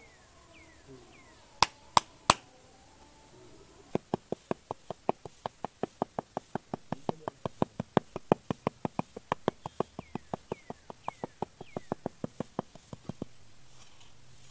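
Small metal hand trowel tapping: three sharp clicks about two seconds in, then a quick, even run of light taps, about five a second, from about four seconds in until shortly before the end.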